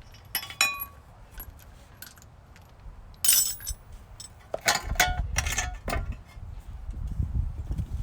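Small metal car parts clinking and clattering as they are handled and set down. There is a single ringing clink about half a second in and a cluster of clanks between about four and a half and six seconds.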